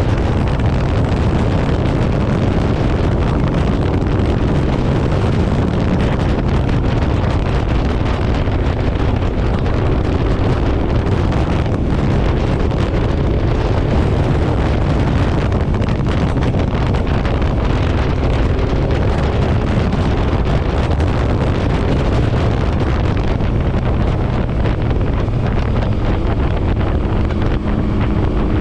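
Motorcycle riding at speed: heavy wind rushing over the microphone, steady throughout, with the engine and road noise running underneath.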